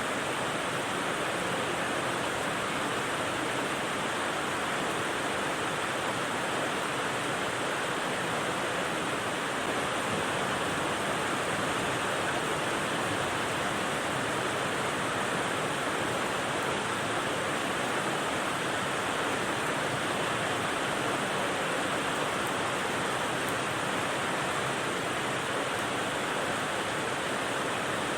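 Steady white-noise rain: an even, unbroken hiss with no single drops standing out.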